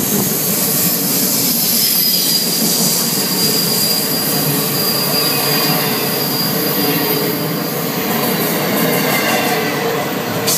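Intermodal freight cars loaded with trailers and containers rolling past close by. The steel wheels make a loud, steady rumble on the rails, with a thin, high wheel squeal held over it.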